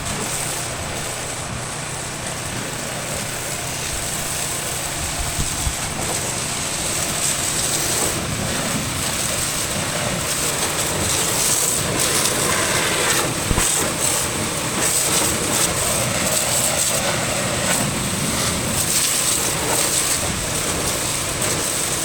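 High-pressure water jet spraying onto a tractor and baler during washing, a steady hiss with a motor's low hum running beneath.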